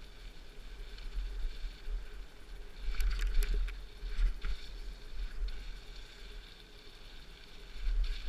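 Mountain bike being ridden along a dirt trail: a steady low wind rumble on the camera microphone, with a quick cluster of sharp rattles and clicks from the bike about three seconds in and another about a second later.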